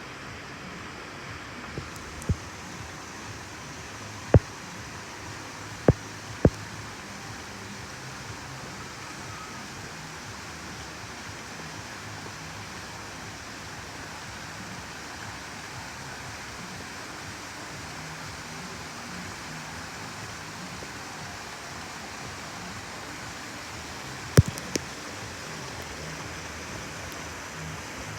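Steady rush of flowing water in a water park's lazy river, broken by a few sharp knocks: several in the first seven seconds and a short cluster near the end.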